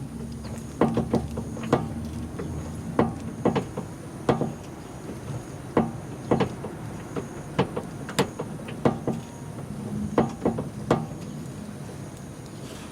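Irregular clunks and knocks from a car, roughly one a second, over a steady low engine hum. This is the abnormal noise the owner suspects comes from the rack-and-pinion steering.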